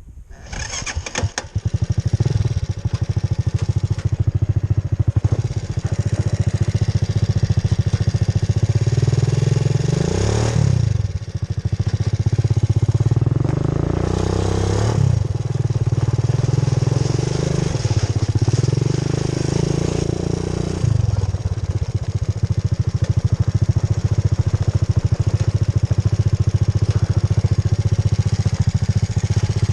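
Quad bike engine running under way, coming in loud about a second in after a few clicks, its note dropping and climbing again several times in the middle as the revs change.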